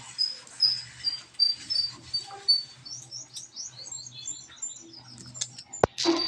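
Small birds chirping: a run of short, high chirps, then a quicker series of falling chirps from about halfway through. A single sharp click comes near the end.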